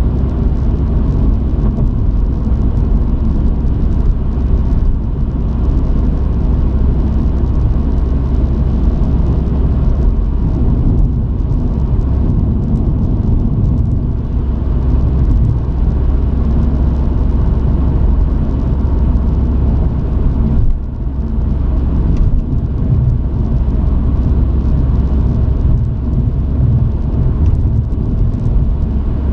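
A truck on the move, its engine and road noise heard as a steady low rumble from the cab, with one brief dip in loudness about two-thirds of the way through.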